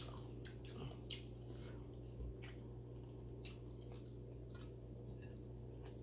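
Soft chewing, lip smacks and wet mouth clicks as grilled chicken is pulled apart by hand and eaten, a few scattered clicks a second. A steady low hum runs underneath.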